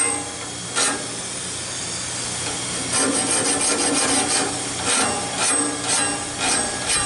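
Bandsaw blade being sharpened tooth by tooth: short rasping grinding strokes on the steel teeth. One stroke comes about a second in, then a run of strokes at about two a second from around three seconds in, over a steady hum.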